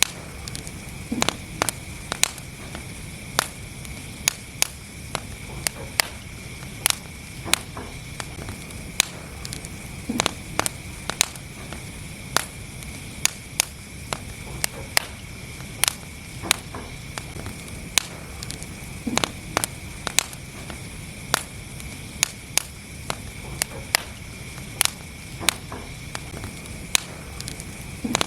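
Wood fire in a fireplace crackling: sharp, irregular pops and snaps, a couple a second, over a steady low rush of the burning.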